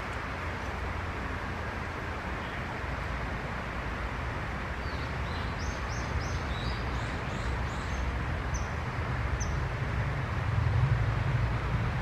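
A steady low background rumble that grows louder near the end, with a quick run of short, high, sharp bird chirps in the middle.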